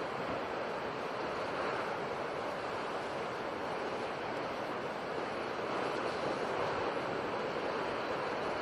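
Sea surf washing steadily, a continuous rushing noise with only slight swells.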